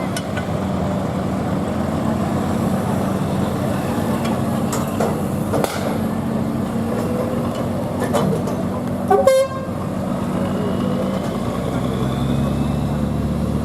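A diesel engine running steadily at an even speed, with a short, loud horn toot about nine seconds in.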